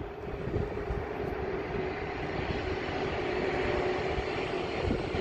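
EP1P electric locomotive hauling a passenger train past at a distance: a steady rumble with a held mid-pitched hum.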